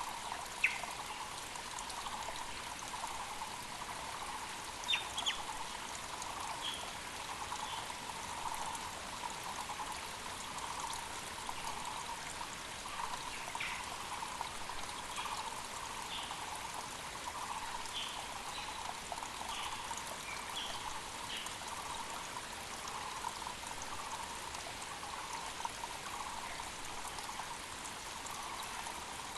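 Mountain creek water running steadily, with short high bird chirps scattered throughout.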